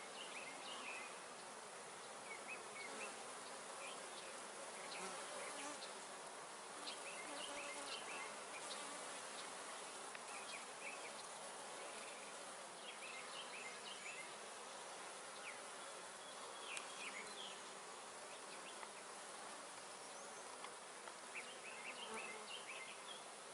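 Honey bees buzzing around a busy hive, a steady hum of many bees flying.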